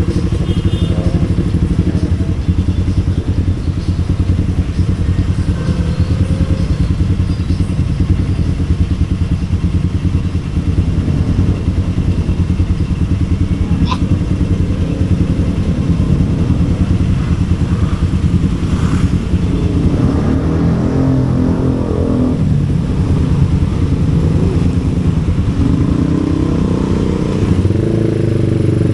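Small motorcycle engine running steadily while riding. The engine note shifts in pitch in the second half, and there is a single sharp click about halfway through.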